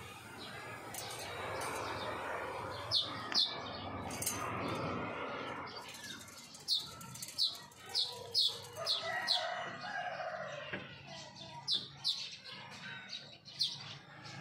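Small bathing bird fluttering and splashing its wings, with many short, sharp, high chirps, several of them in quick pairs.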